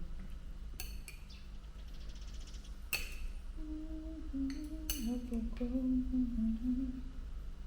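A person humming a wandering tune with closed lips, joined by a few sharp clinks, about one second in, at three seconds and twice around five seconds.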